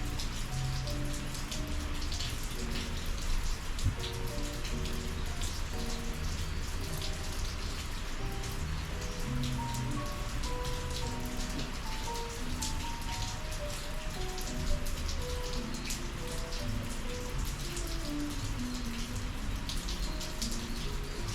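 Steady rain falling, with many sharp raindrop hits, under a soft, slow melody of short single notes.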